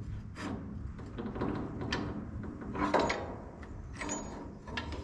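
Metal machine parts being handled and fitted by hand: scraping and sliding with several knocks, the loudest about three seconds in.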